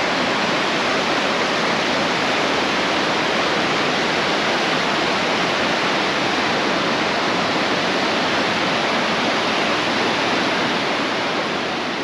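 Steady rush of a mountain stream cascading down a steep rocky bed into Eagle Creek, easing off slightly near the end.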